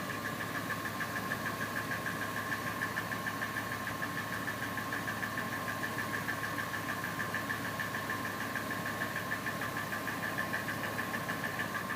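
Ford 5.4 Triton V8 idling steadily, with a slight, quick, even tick from low in the engine. The owner can't tell whether it is a knock or a bearing; oil pressure is good and it doesn't change when revved.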